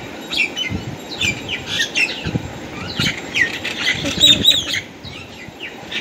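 Several small birds chirping and squawking in quick, overlapping calls, with a louder pair of calls about four seconds in and a short lull just after.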